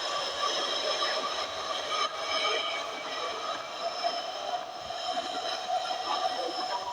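London Underground train running, a steady rush of rail noise with several held high whining tones over it.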